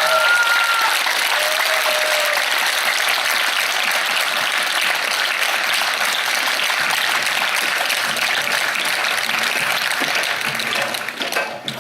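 Audience applauding steadily after a musical number, with the last notes of the music dying away in the first couple of seconds; the clapping fades out near the end.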